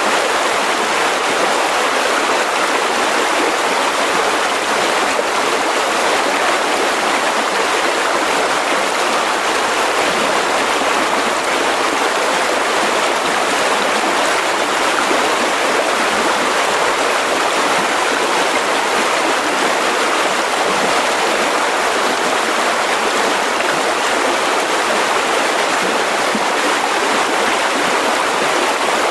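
Mountain river rushing steadily over rocks, a constant even roar of flowing water.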